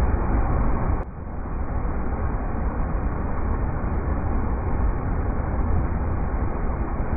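River rapids: a steady rush of fast-flowing water with a deep rumble, dipping briefly in level about a second in before recovering.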